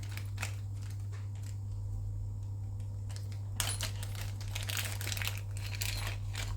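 Small plastic model-kit parts and their packaging being handled: scattered light clicks and crinkling rustles, thickest over the second half, over a steady low hum.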